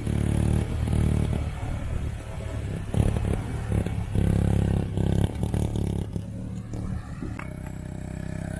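ATV engine running and revving, the engine note swelling and dropping repeatedly as it is ridden.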